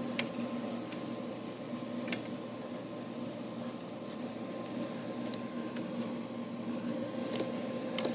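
Steady mechanical hum with a few faint, light clicks scattered through it.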